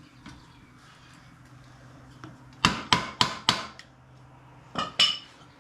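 Hammer blows during front-wheel reinstallation on a motorcycle: four quick, sharp ringing strikes about halfway through, then two more near the end.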